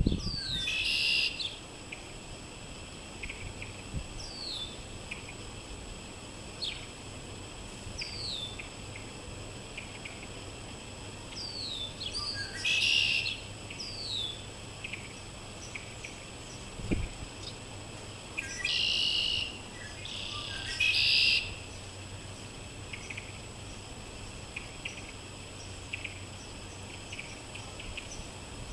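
Red-winged blackbirds calling: short falling whistles every few seconds, with four buzzy trilled songs about a second long each.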